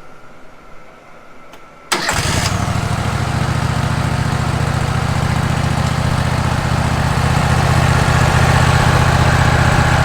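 Wood-Mizer LT15 Wide sawmill engine starting abruptly about two seconds in, then running steadily and getting a little louder near the end.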